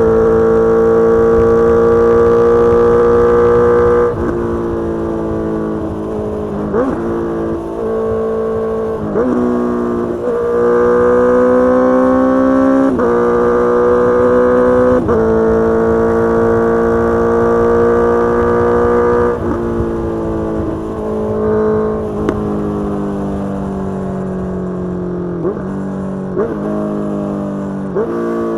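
Inline-four engine of a 2022 Honda CBR650R running through a Mivv GP Pro full-system exhaust, pulling hard in long climbs in pitch broken by gear changes, with a cluster of quick shifts about a third of the way in. In the last third it rolls off and winds down, with several short blips of revs near the end.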